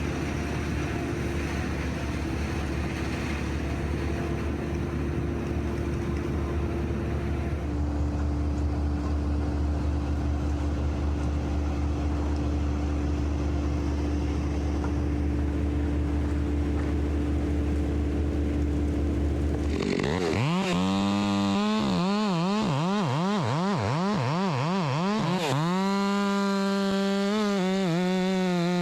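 Crane engine idling steadily. About twenty seconds in a chainsaw starts up, revving up and down in quick repeated pulses, then holds at a steady high rev near the end as it begins cutting.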